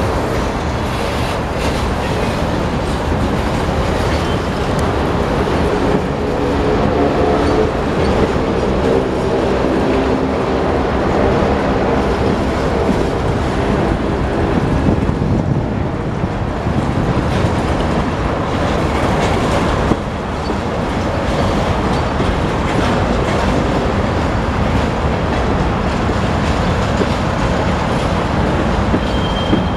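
Freight cars of a Union Pacific train rolling steadily past, steel wheels clattering over the rail joints. For several seconds between about a quarter and half of the way through, a steady whining tone rises over the rumble, typical of wheels squealing on the rails.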